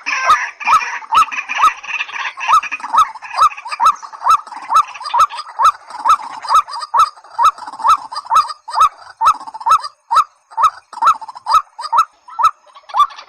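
A waterhen-type rail calling over and over in a steady series of short, upward-hooked notes, about three a second, with sharp clicks between them.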